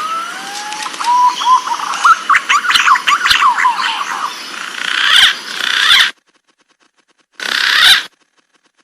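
Green pigeon (punai) calling: a rising whistle that breaks into a quick run of warbling whistled notes over steady hiss, cut off abruptly about six seconds in. A short burst of the call follows near the end.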